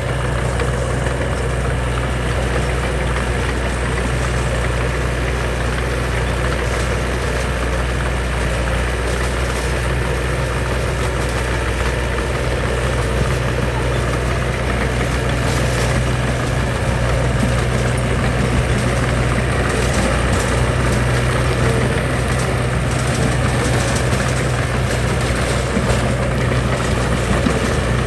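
Diesel engine of a heavy construction machine running steadily with a low, even drone.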